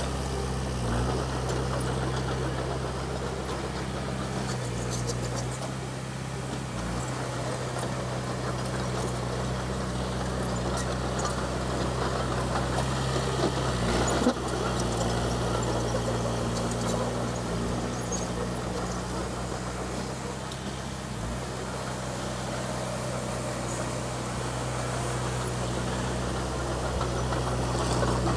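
Komatsu D20P bulldozer's diesel engine running steadily, with scattered metallic clanks and a single sharper knock about halfway through.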